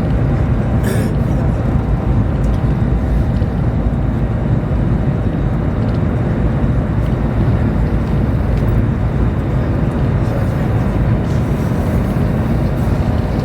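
Steady low rumble and rush of a Chinese high-speed train running at speed, heard from inside the carriage.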